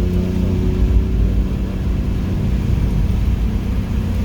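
Car on a race track: the engine holds a steady note that fades out about a second in, under a heavy low rumble of road and wind noise that carries on throughout.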